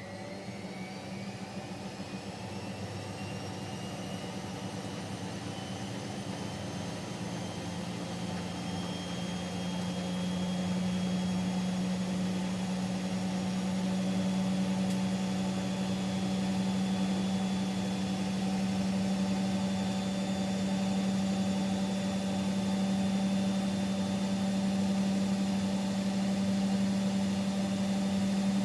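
Siemens Siwamat Plus 574 washing machine in an intermediate spin between rinses. The motor's whine rises in pitch as the drum speeds up over the first ten seconds or so, then holds steady at spin speed over a steady hum.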